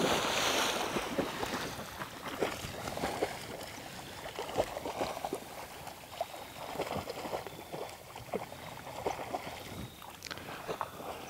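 A dog swimming across a pond: a louder rush of splashing at the start, then light, irregular splashes and paddling in the water.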